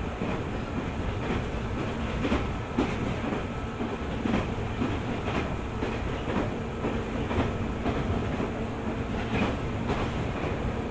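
A JR 205 series 600 subseries electric train running at speed: a steady rumble with the wheels clicking over rail joints every half-second to second.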